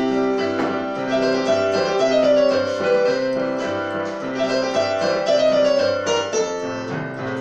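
Keyboard playing an instrumental interlude of a children's song: a bass line of repeated notes under a melody, at a steady beat.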